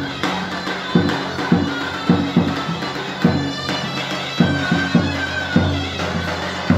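Live Turkish folk wedding music: a loud, reedy wind instrument plays a melody over a held drone, with heavy beats of a large bass drum one to three times a second.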